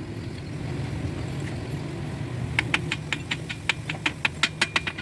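A quick, even run of sharp clicks, about six a second, starting about halfway in, over a steady low hum.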